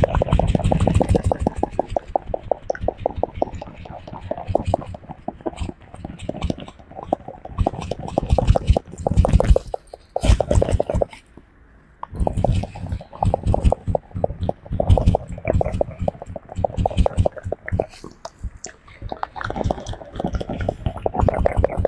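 Close-miked scratching and rubbing from a monkey's fingers grooming a person, a dense crackle of quick strokes that comes in runs of a few seconds with short pauses between them.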